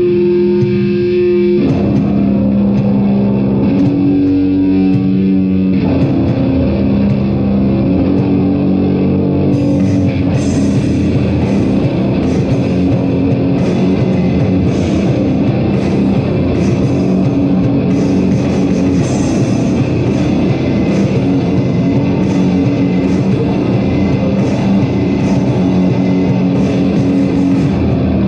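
Heavy metal band playing live: loud distorted guitar and bass holding low, droning chords, with drums and steady cymbal hits joining about ten seconds in.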